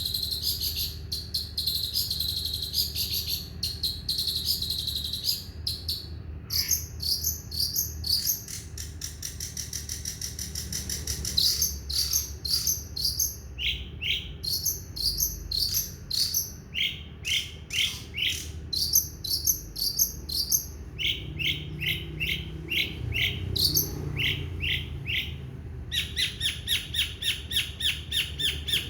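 Long-tailed shrike (cendet) singing a long, varied song. It opens with a high warbling phrase, moves into runs of quick repeated chirps and short trills several notes a second, and ends on a fast, even series of chirps.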